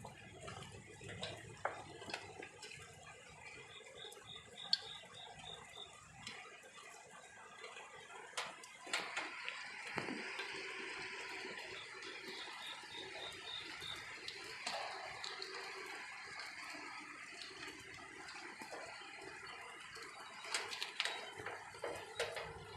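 Rain falling and water splashing and dripping: a steady hiss with scattered drip clicks, growing louder about ten seconds in.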